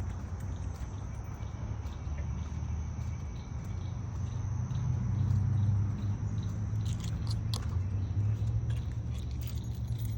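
Outdoor park ambience: a low rumble that swells about halfway, a steady high insect drone, and scattered light steps and ticks.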